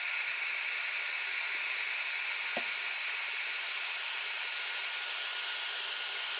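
Heat gun blowing steadily, a high-pitched motor whine over the rush of air, used to shrink heat-shrink tubing. There is a faint tick about two and a half seconds in.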